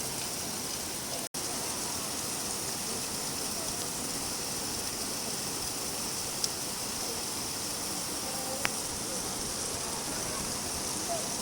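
Steady rain falling, an even hiss with a few single drop ticks, broken by a split-second gap about a second in.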